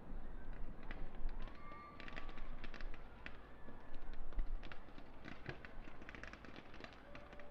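A fireworks display heard from a distance: scattered pops and clusters of crackling, with a brief thin whistle about two seconds in.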